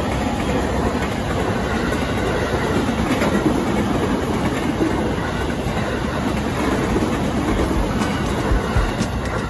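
Electric commuter train passing close by, a steady rush of wheels on the rails.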